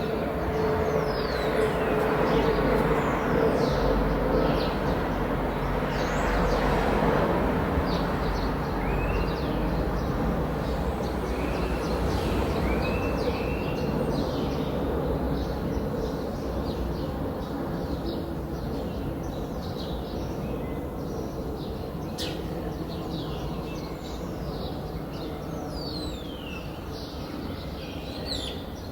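Small birds chirping in quick short calls over a steady low rumble with a faint hum, like a passing vehicle, that is loudest in the first several seconds and then slowly fades.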